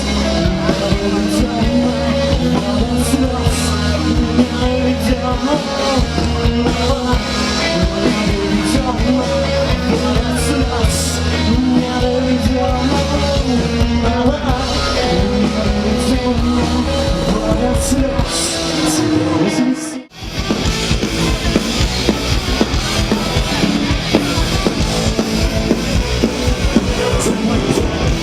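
Live rock band playing: drum kit, electric guitar and sung vocals. About twenty seconds in the sound cuts out abruptly for a moment and comes back with busier drumming.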